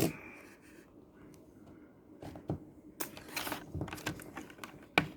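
Cardboard-and-plastic blister packaging of a toy car 3-pack being handled and turned over: scattered light clicks and crinkles, starting about two seconds in, with one sharper click near the end.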